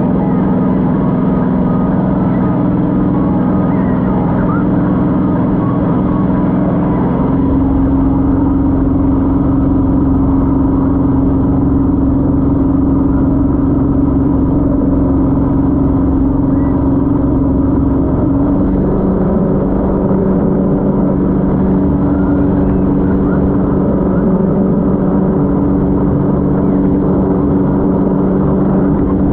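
Speedboat engine running hard and steadily. Its pitch steps up about seven seconds in and drops back down around two-thirds of the way through.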